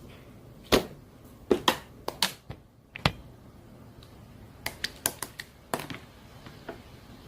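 Irregular sharp clicks and taps, about a dozen single strikes in uneven clusters, over a faint steady hiss.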